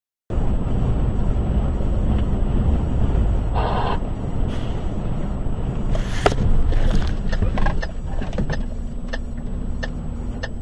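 Road and engine rumble of a moving car, picked up inside the cabin by a dashcam. There is a brief pitched sound about four seconds in and a sharp knock about six seconds in.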